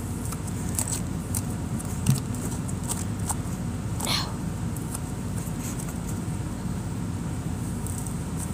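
Jelly cube slime being squeezed and pulled apart by hand, with scattered small wet clicks and pops over a steady low rumble.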